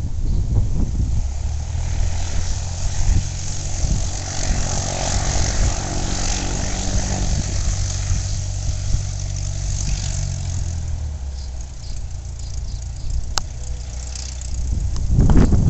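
Small private propeller airplane's engine droning steadily at takeoff power, fading after about eleven seconds, with wind gusting on the microphone.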